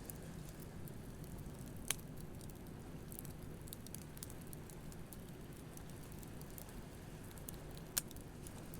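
Beach bonfire crackling with scattered small clicks and two sharper pops, one about two seconds in and one near the end, over a low steady wash of surf.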